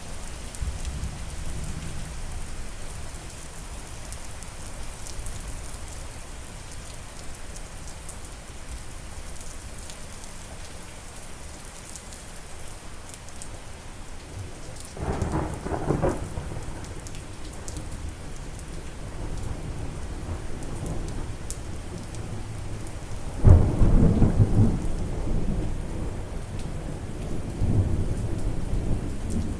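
Steady rain falling, with thunder: one rumble about halfway through, then a louder clap about three quarters of the way in whose rumble rolls on to the end.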